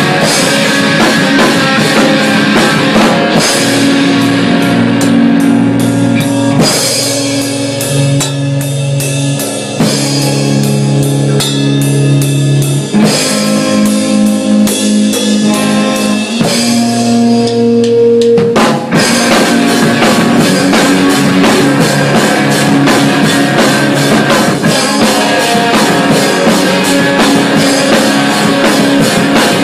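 A rock band playing an instrumental passage: a drum kit and guitars. The guitars hold long chords over steady drumming, and the band moves into a new section about two-thirds of the way through.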